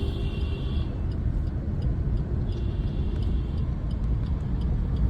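Car moving in traffic, heard from inside the cabin: a steady low engine and road rumble.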